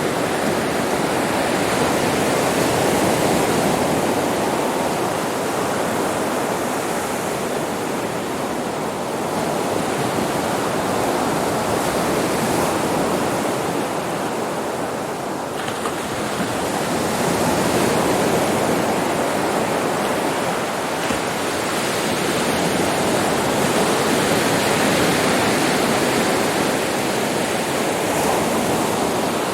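Sea waves breaking and washing up a beach: a continuous rush of surf that swells and eases every several seconds.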